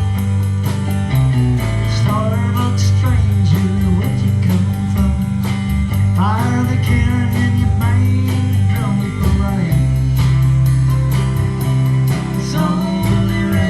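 A band playing an instrumental break: a guitar lead with bending notes over a steady bass line and a regular cymbal beat.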